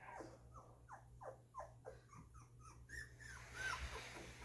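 Two-week-old golden retriever puppies whimpering: a run of short, high, falling squeaks, about three a second, with one longer rising-and-falling whine about three and a half seconds in.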